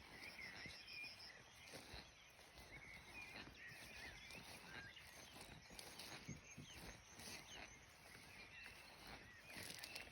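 Wetland birds calling faintly: many short, wavering chirps and warbles overlapping throughout, with a quick run of about six high pips in the first second.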